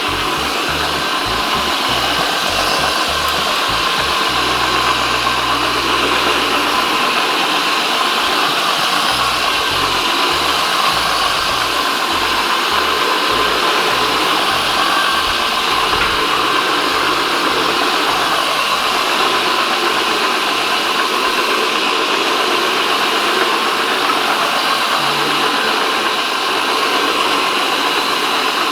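Steady machine noise from carpet-cleaning equipment, most likely the counter-rotating brush machine agitating a pet-urine enzyme treatment into the carpet, with a constant high motor whine.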